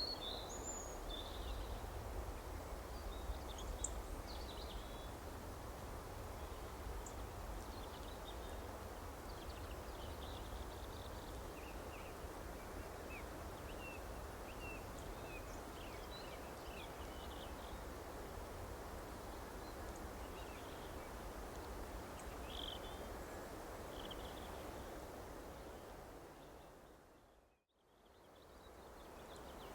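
Scattered faint bird chirps over a steady outdoor background noise. About two seconds before the end, everything fades out to silence for a moment and then fades back in.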